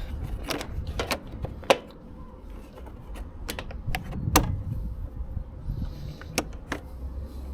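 Irregular clicks and knocks of a motorcycle's plastic side panels being fitted back on, clips and fasteners tapping into place, with two louder knocks, one under two seconds in and one past four seconds.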